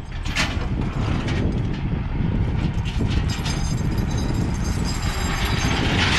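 Heavy diesel logging equipment running with a steady low rumble and metallic rattling, a louder rushing noise rising near the end.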